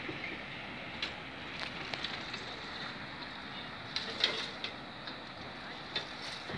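Rumble of a freight train moving away from the level crossing, fading to a steady low hiss, with a few sharp clicks and knocks scattered through it.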